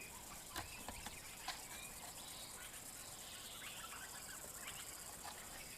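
Faint bush ambience with soft distant bird calls and a few light clicks.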